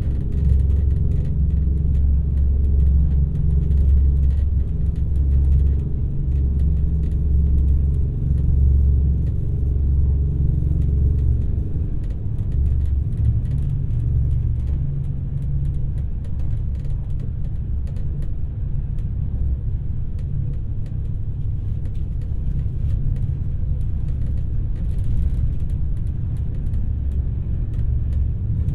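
Alfa Pendular Class 4000 tilting electric train running on the line, heard from on board: a steady low rumble of wheels on rail. It is heavier for the first dozen seconds or so, then eases a little.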